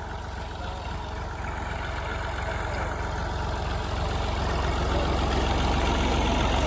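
Old tractor engine running with a steady low throb, growing steadily louder, under the load of a stuck trolley loaded with sugarcane.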